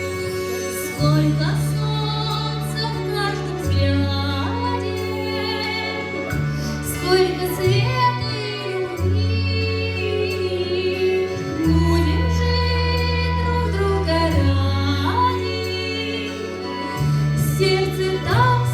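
Female voices sing a melodic song over instrumental accompaniment, with long held bass notes that change every few seconds.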